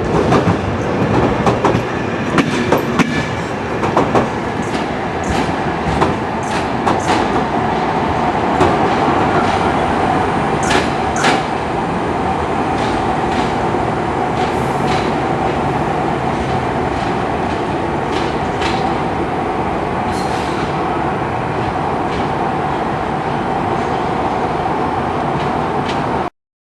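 Train running on the rails with a steady hum and many sharp clicks and knocks from the wheels on the track, most of them in the first half. The sound cuts off suddenly near the end.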